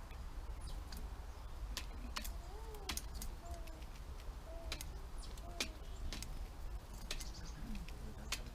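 Birds at a feeding spot close to the microphone: irregular sharp taps and clicks, with short soft calls that rise and fall in pitch in between, over a steady low rumble.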